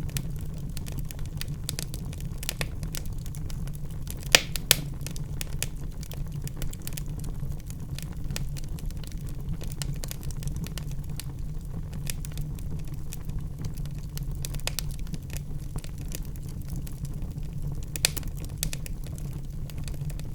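Wood fire in a fireplace burning with a steady low rumble of flames and constant small crackles, with two sharp pops a little after four seconds and another near the end.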